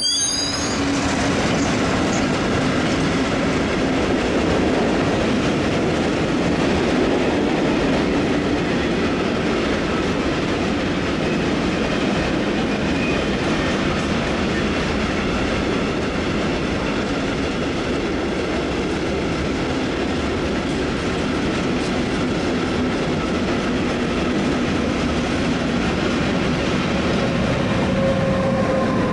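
A train running past on the station tracks: a steady rumble of steel wheels on rails with clickety-clack, and brief high wheel squeals in the first second.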